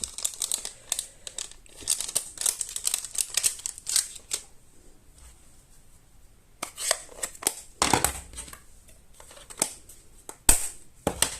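Paper cardstock being cut and handled: runs of short crisp snips and rustles, a quiet pause, then more, with one sharp click near the end.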